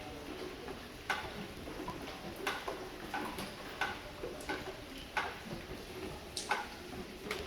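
Irregular drips of rainwater tapping on a hard surface, a sharp tick every half second to a second and a half, over a faint steady hiss of rain.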